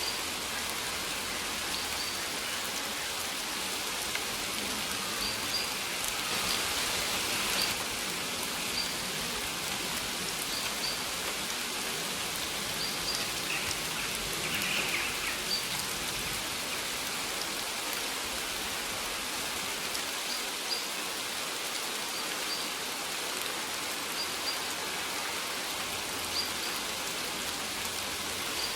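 Steady rain falling on a surface, with short high bird chirps recurring every second or two over it.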